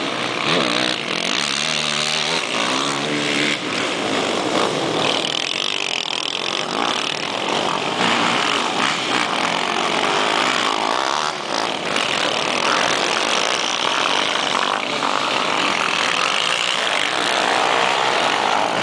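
Motocross motorcycle engines running on a track, revving up and down so their pitch rises and falls.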